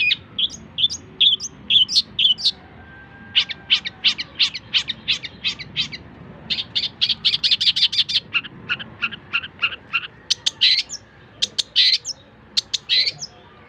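Long-tailed shrike (cendet) singing a varied, mimicking song used as tutor material for songbirds: fast runs of sharp chips, about ten a second, broken up by single varied notes, with a few upward-sweeping calls near the end.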